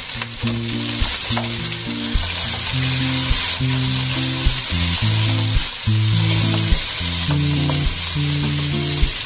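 Pork trotter pieces frying in hot oil in a wok: a steady sizzle, with occasional clicks and scrapes as a wooden spatula turns them. Background music with low sustained notes plays over it.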